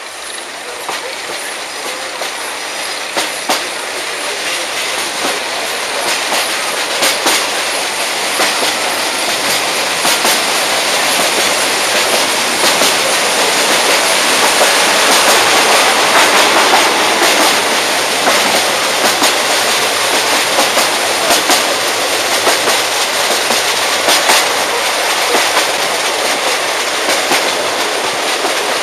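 Narrow-gauge train departing and gathering speed: steel wheels rolling on the rails, with irregular clacks over the rail joints, growing louder over the first half and then running on steadily.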